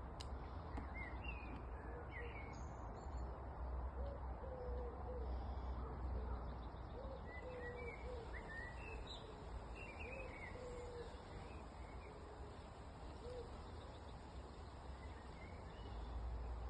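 Birdsong over a steady low rumble of distant traffic: one bird gives a run of short low notes in the middle of the stretch, while small birds chirp higher up.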